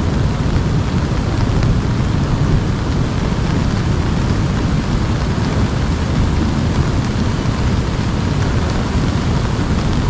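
Steady rain, with a deep, continuous rumble underneath.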